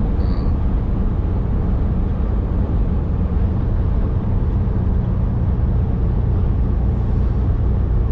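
Steady low drone of a Volvo semi truck's diesel engine and road noise, heard inside the cab.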